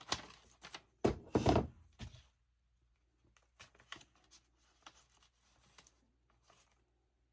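Paper and card being handled on a craft table: a few light knocks, then a louder rustling thunk of about a second as the page and tag are shifted, followed by faint scattered taps.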